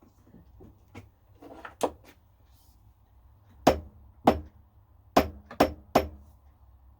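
Sharp hammer taps: one strike about two seconds in, then five louder strikes in quick succession over the second half, each with a brief ring.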